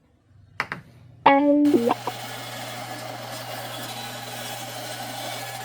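A couple of light clicks, then an electric shop power tool starts with a loud pitched whine that drops in pitch, and settles into a steady motor hum.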